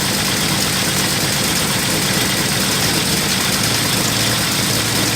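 A Tornado's engine idling steadily with an even, regular pulse, running on its own while being brought back to life.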